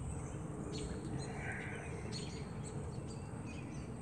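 Birds chirping several times in short high calls over a low, steady background hum.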